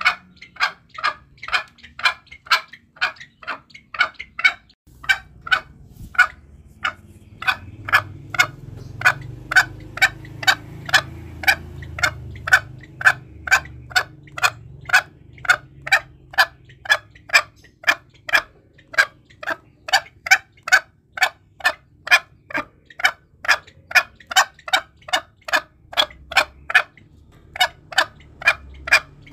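Green junglefowl calling over and over, short sharp clucking notes about two a second, with a low steady hum underneath from about five seconds in.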